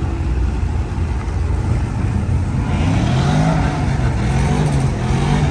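A car engine running, then revving up about halfway through, its pitch rising and wavering as the throttle is worked.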